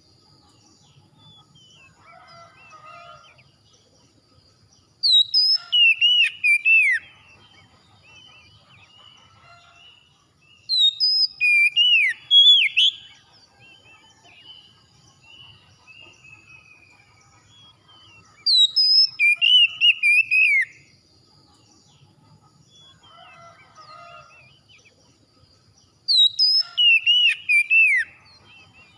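Oriental magpie-robin song: loud, about two-second phrases of whistled notes sliding up and down, repeated four times about every seven seconds, with faint bird calls in the gaps.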